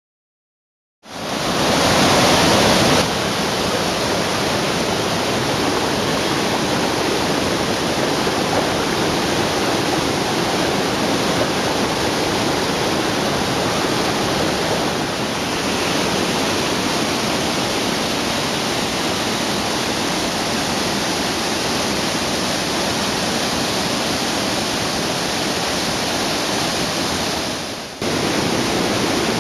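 A wide curtain waterfall, about 10 m high and 20 m across, pouring with a steady rushing roar of falling water. The sound cuts in about a second in and dips briefly near the end.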